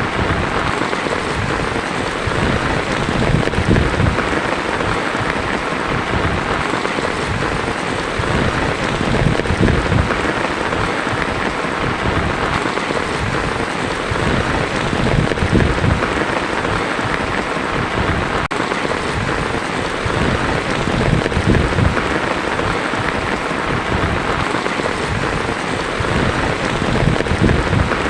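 Heavy rain drumming steadily on a tin roof, with low rumbling swells every few seconds.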